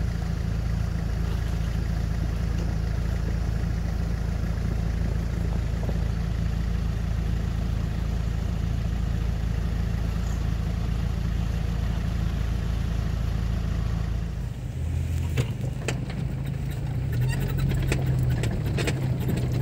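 Off-road 4x4 engines running steadily at low revs. About 14 seconds in the sound changes to a 4x4 driving along a rough track, heard from inside its cabin: the engine runs with repeated knocks and rattles.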